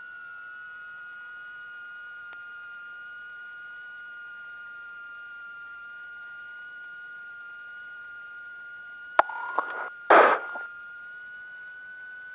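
Steady high-pitched electrical whine with a fainter higher tone above it, carried on the cockpit intercom audio of a twin-engine Beechcraft Duchess with its engines pulled back to about 1,000 rpm; the pitch settles slightly lower in the first second. About nine seconds in comes a sharp click, then two short bursts of noise a second apart.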